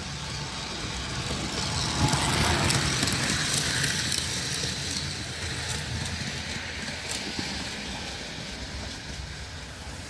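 O-scale model train running on its track, a steady rumble of wheels and motor that grows louder about two seconds in as it passes close, then fades away.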